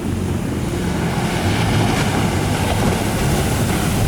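Steady wind buffeting the microphone over ocean surf, with a low rumble throughout.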